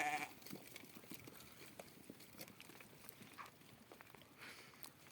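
A bleat from the small livestock cuts off a moment after the start, followed by faint scattered taps and shuffles.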